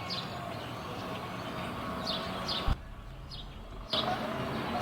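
A small bird chirps repeatedly, short high falling chirps every second or so, over a steady low background hum. A single sharp click comes just past halfway.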